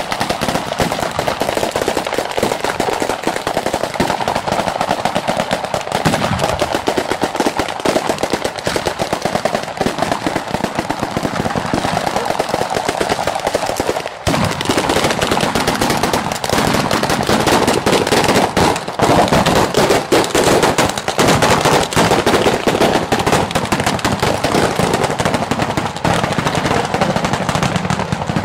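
Bolognese-style fireworks battery going off: a dense, unbroken rapid-fire crackle of bangs like machine-gun fire, with a brief dip about halfway through.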